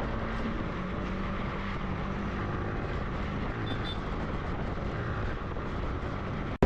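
Motorcycle engine running steadily at cruising speed, with a constant hum and road noise.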